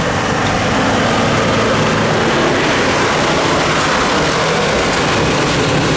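Off-road 4x4 engine running with shifting revs under a loud, even rushing noise.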